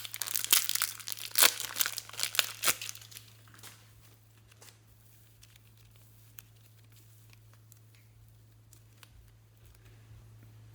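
Crinkling and crackling from hands working something, a dense run of sharp crackles for about three seconds that thins out to a few faint clicks, over a low steady hum.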